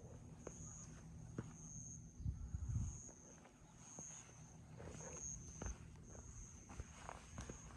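A hiker's footsteps on a forest trail, soft thuds and scuffs with a heavier cluster of steps about two seconds in. Behind them an insect calls in short high buzzes, about one a second.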